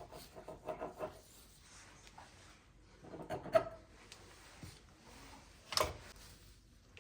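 Quiet kitchen handling noises: light rubbing and scraping with small knocks, in short bursts near the start and about halfway, then one sharper knock near the end.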